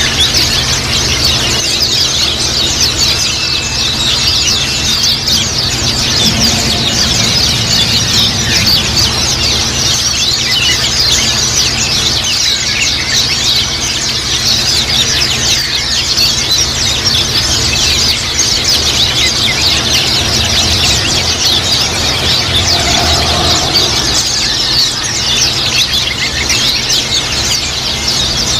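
Dense, continuous chorus of many white-eyes (pleci) twittering together: high, thin chirps overlapping throughout, over a steady low hum.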